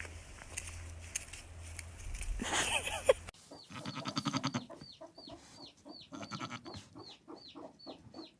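Chickens clucking, with a steady series of short, high, falling peeps about three a second, starting abruptly a little over three seconds in. Before that there are faint rustling and scattered clicks.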